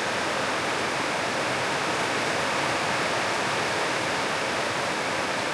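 Heavy rain falling, a steady, even hiss of water with no let-up.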